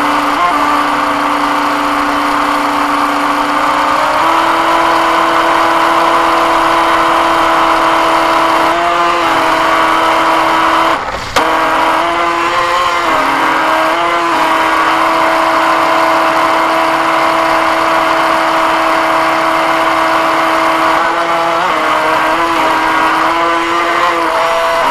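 Radio-controlled boat's motor running at a steady pitch that steps up a few seconds in and wavers with throttle changes, with a brief dip about eleven seconds in.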